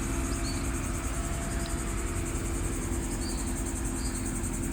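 Insects trilling in a steady, rapidly pulsing high-pitched chorus, over a low steady hum.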